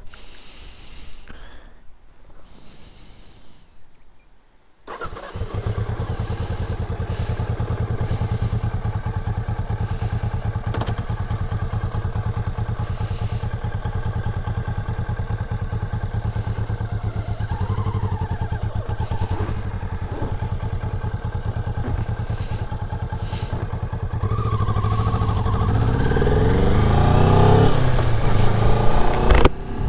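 Kawasaki Ninja 400's parallel-twin engine starts abruptly about five seconds in and idles steadily. Near the end it revs and pulls away, rising in pitch several times as it climbs through the gears.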